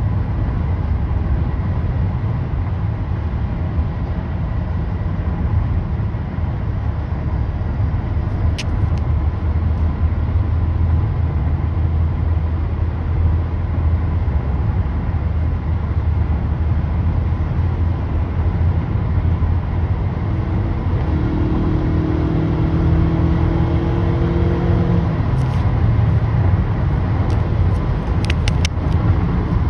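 Motorcycle riding on city streets: a steady low rumble of engine and road noise. About two-thirds of the way through, a pitched engine note rises slightly for a few seconds. There are a few sharp clicks near the end.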